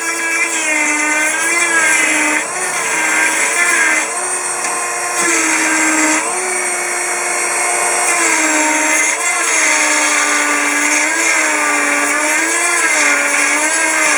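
A small electric power tool's motor running at high speed. Its pitch dips again and again as it takes load, then climbs back.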